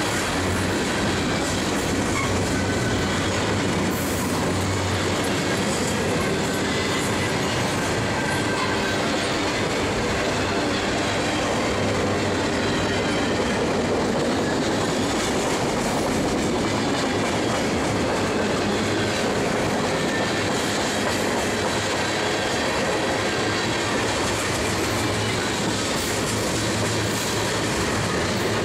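Freight train cars (covered hoppers, a boxcar and tank cars) rolling past close by: a loud, steady rumble and clatter of steel wheels on the rail.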